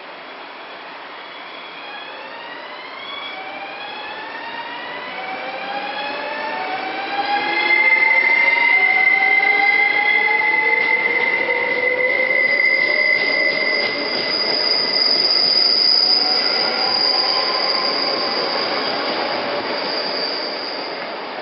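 An electric train accelerating, its traction motors giving a whine of several tones that keep rising in pitch. A loud, high-pitched wheel squeal sets in about a third of the way through and a second, even higher squeal joins it; the whole sound swells and then eases off near the end.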